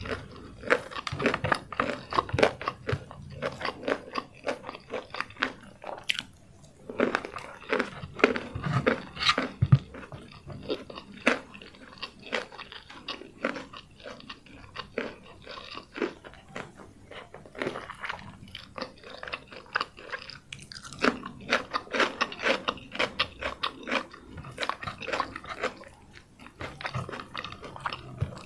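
Close-miked chewing of crispy fried chicken (ayam goreng ranggup) with nasi lemak: irregular crunching and clicking in bouts, with a couple of short pauses.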